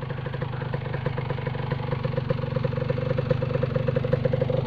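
Honda TRX250R quad's two-stroke single-cylinder engine running steadily at low speed with an even pulse, towing a dead dirt bike over a rough trail, with some light clatter.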